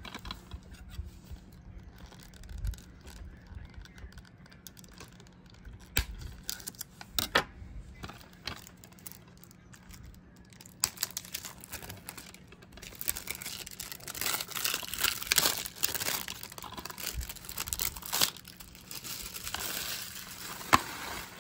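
Plastic shrink-wrap being torn and crinkled off a DVD case, with scattered clicks and handling noises. The dense crinkling starts about halfway through, and a sharp click comes near the end.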